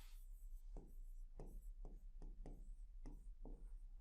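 Faint strokes of handwriting, irregular at about two or three a second, as a definition is written out.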